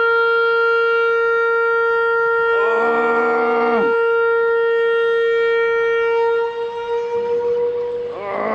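Dam warning horn sounding a long steady tone that fades out near the end, with two shorter, lower blasts that swell and die away, one about three seconds in and one near the end. This is the kind of horn a dam sounds to warn that it is about to release water through the gates or turbines.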